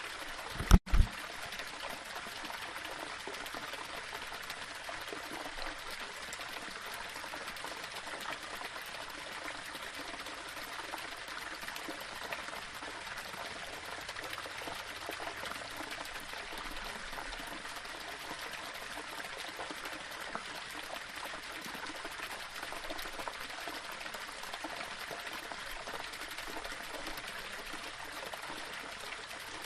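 Small waterfall running steadily over rocks, an even rushing splash. About a second in, a brief loud low thump, twice in quick succession, cuts through it.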